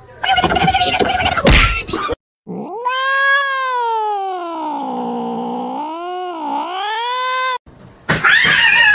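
A cat's long, drawn-out yowl of about five seconds, dipping and rising in pitch, from a cat in a nose-to-nose standoff with another cat. It follows a couple of seconds of mixed noise, and near the end another cat's wailing starts.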